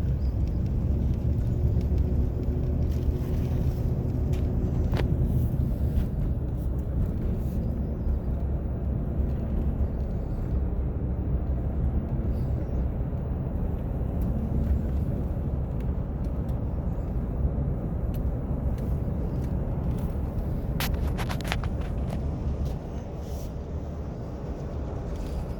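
Car engine and road noise while driving steadily, a continuous low rumble with a faint engine hum. A short cluster of clicks comes a few seconds before the end, and the rumble eases slightly after it.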